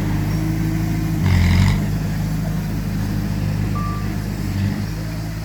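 Heavy diesel earthmoving machinery running steadily: a bulldozer or dump truck engine. About a second in there is a brief burst of noise, and a single short high beep sounds near the end.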